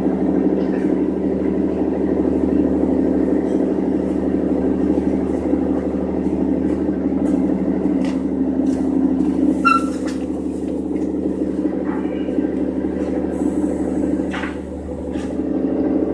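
A large vehicle's engine running steadily at idle, a constant low hum, with scattered clicks and a short high squeak about ten seconds in.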